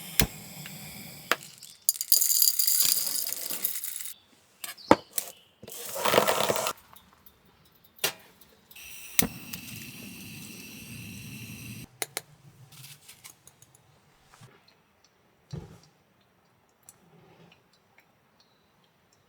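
Metal cookware clinking and knocking as a lid is set on a small cast iron pan to melt the cheese on a tortilla pizza. Several short clinks are heard, with three stretches of hissing in between.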